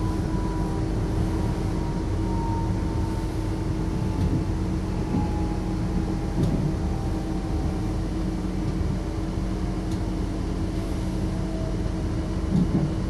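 Passenger train running, heard from inside the carriage: a steady rumble with a constant hum, a faint whine slowly falling in pitch, and a few light knocks.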